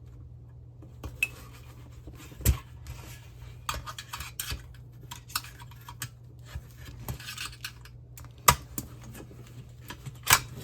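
Flathead screwdriver clicking and scraping against the plastic retaining clips and steel frame of a monitor's power-inlet socket as it is pushed out a bit at a time. Irregular sharp clicks and knocks, the loudest about two and a half, eight and a half and ten seconds in.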